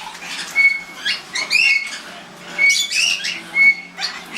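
Pet parrots calling: short flat whistled notes alternating with arching squawks, the pattern repeating about once a second.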